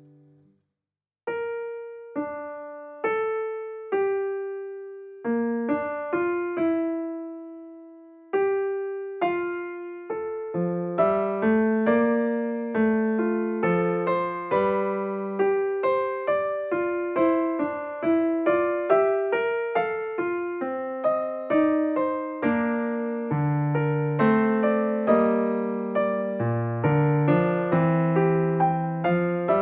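Slow, gentle piano music. A short gap about a second in, then single notes one at a time, joined by a fuller accompaniment of overlapping notes about a third of the way through.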